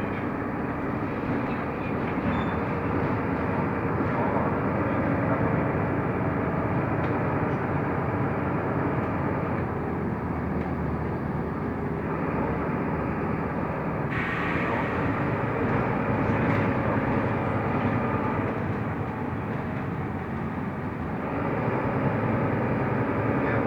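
Mercedes-Benz Türk O345 Conecto LF city bus driving, heard from inside the cabin: a steady mix of engine and road noise. Its character shifts a few times, about ten seconds in, again at about fourteen seconds, and once more near the end.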